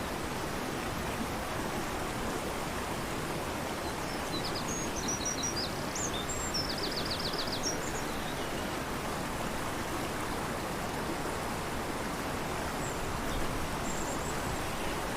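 Fast-flowing river rushing steadily, with birds calling over it: a few high chirps between about four and eight seconds in, including a quick run of repeated notes, and a faint call near the end.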